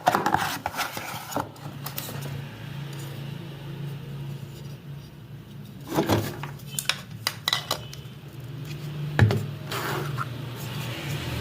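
Small electric motor of a portable mini fan running with a steady low hum, with sharp clicks and knocks from the plastic body being handled, the loudest about nine seconds in.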